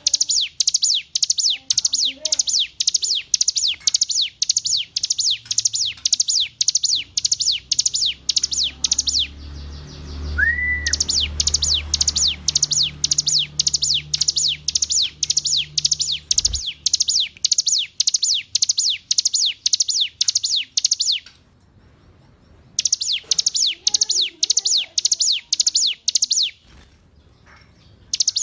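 Ciblek gunung (a prinia) singing: a fast, even run of sharp high chirps, about three a second, in long bouts broken by short pauses. A single short rising whistle sounds in the first pause, and a low hum runs under the song for several seconds after it.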